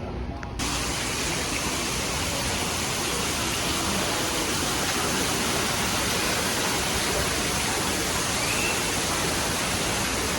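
Steady rushing of a waterfall, an even hiss of falling water that begins abruptly about half a second in and holds at one level throughout.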